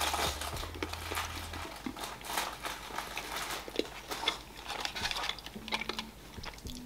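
Chewing and biting a chocolate toffee candy with nougat and nuts: irregular soft mouth clicks and small crunches, with a faint crinkle now and then.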